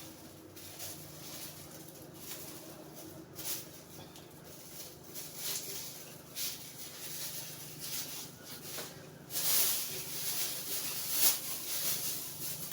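Kitchen handling sounds as onion is added to raw chicken in a pot: irregular light clicks, taps and rustling, with a louder stretch of rustling in the last few seconds.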